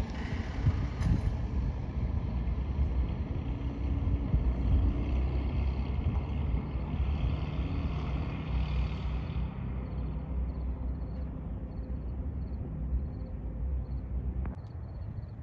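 Single-engine light piston airplane running, loud at first and gradually fading away. Faint, evenly repeated high chirps appear about two-thirds in.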